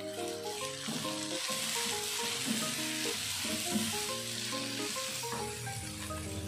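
Chillies, shallots, garlic and tomato sizzling in hot oil in a frying pan as they are stirred with a spatula, over soft background music.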